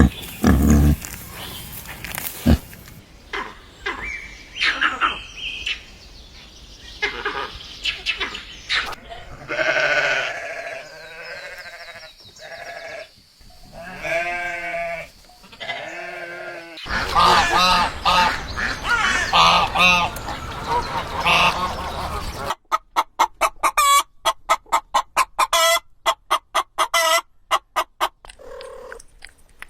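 Farm animals calling in several short clips cut together, with pitched calls that bend up and down. Near the end comes a quick series of short, evenly repeated calls.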